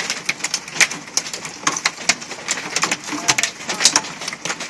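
Hailstones falling and striking hard surfaces: many irregular sharp clicks and knocks, a few louder ones, over a steady rush of falling precipitation.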